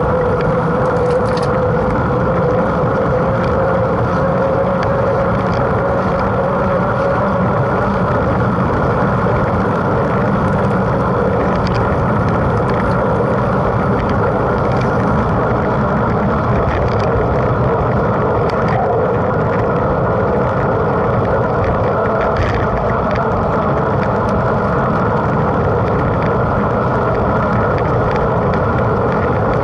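Mountain bike being ridden at speed, giving a steady rush of wind and tyre noise with a few small clicks and rattles.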